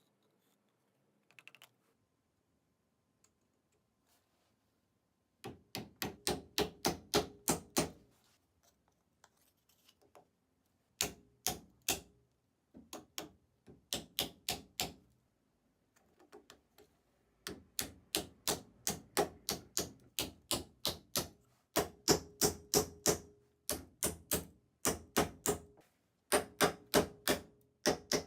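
Rapid, evenly spaced sharp taps or strikes, about five a second, in bursts of a few seconds with short pauses between them, each with a faint ring.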